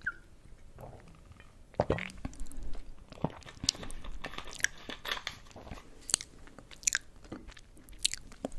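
Close-miked chewing of yugwa, Korean fried glutinous-rice confection coated in puffed rice: irregular crisp crunches that start about two seconds in.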